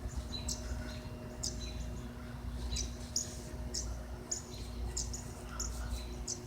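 Small songbirds giving short, sharp, high chip calls, one or two a second, over a steady low rumble.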